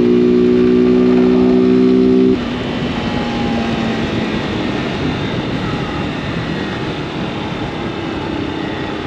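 Honda CG 160 Fan's single-cylinder engine held at steady high revs under throttle. A little over two seconds in the throttle is closed and the engine note falls away, leaving the bike coasting on a faint engine note over wind and road noise.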